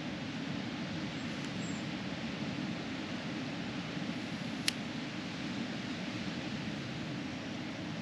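Steady rushing background noise, with one sharp click about halfway through.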